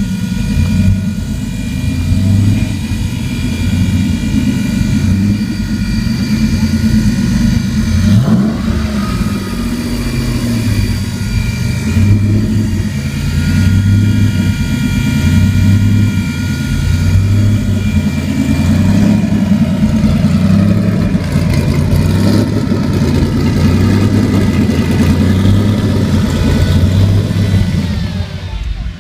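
Nissan 300ZX's big single-turbo VG30 V6 running loud through its exhaust at an uneven, loping idle that rises and falls without letting up.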